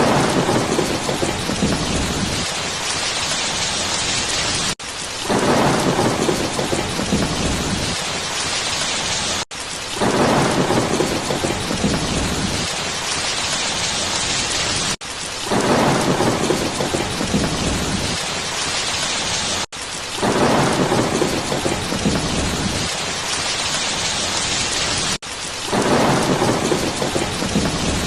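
Steady heavy rain with a low rumble of thunder, a thunderstorm recording. The same stretch repeats about every five seconds, each time opening with the rumble and broken by a brief dropout.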